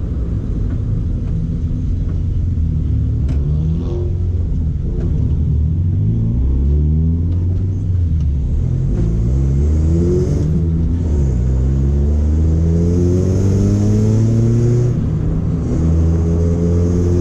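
Honda Civic EF2's D15B single-carburettor four-cylinder engine heard from inside the cabin, climbing in pitch as it accelerates through the gears. The pitch drops back at gear changes about ten and fifteen seconds in, then it runs steadily.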